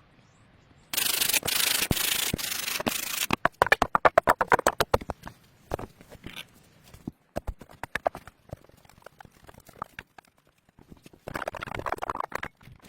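Rough rubbing and scraping on a hard surface: a loud steady rasp for a couple of seconds, then a run of quick strokes at about five a second, scattered knocks and clicks, and another short rasp near the end.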